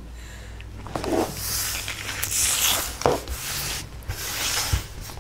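Dry rustling and crinkling of dried catnip, in irregular bursts with small clicks, as a cat noses and chews at it.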